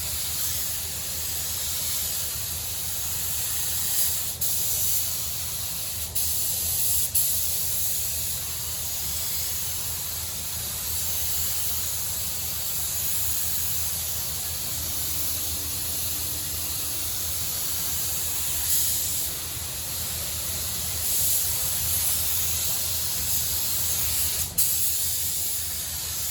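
Compressed-air paint spray gun spraying paint onto a car bonnet: a steady hiss with a few brief breaks.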